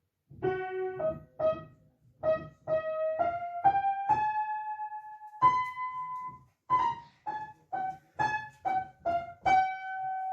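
Piano music: a simple melody of single notes that climbs step by step to a long held note about four seconds in, then goes on with shorter notes.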